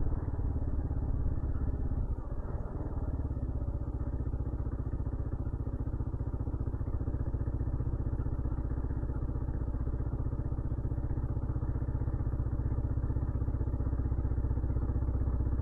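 2015 Kawasaki KLR 650's single-cylinder four-stroke engine running at steady low revs on light throttle, with a brief dip in the engine note about two seconds in.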